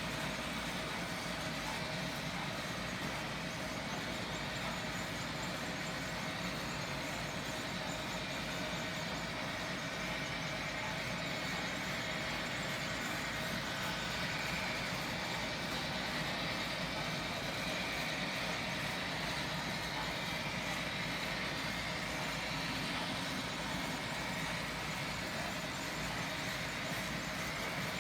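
A train running steadily: an even mechanical rumble with a faint steady whine, holding one level throughout.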